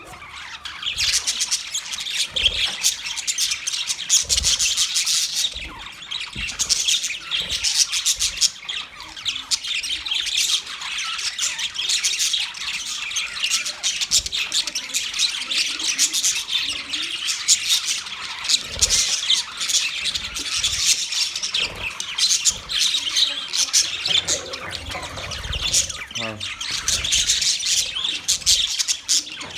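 Budgerigars chirping and chattering continuously, a dense run of quick high chirps and squawks without a break.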